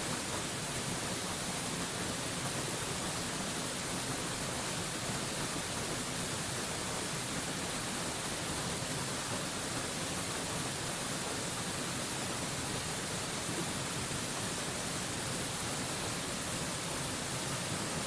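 Waterfall pouring in a steady, unbroken rush of white-noise-like hiss, strongest in the high range.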